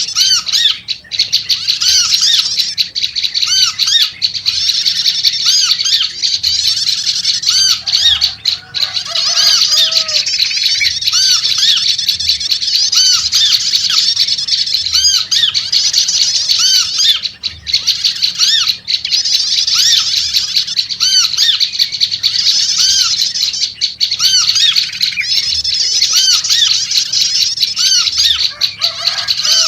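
Prenjak lumut birds chattering loudly and without pause: a dense stream of rapid, high, arched notes, with a slower series of lower notes repeating about once a second. A few lower, warbling notes from another bird come in about eight seconds in and again near the end.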